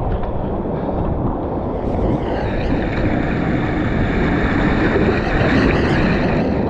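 Strong wind buffeting the microphone over ocean surf breaking on rocks. A louder rush of water builds from about two seconds in.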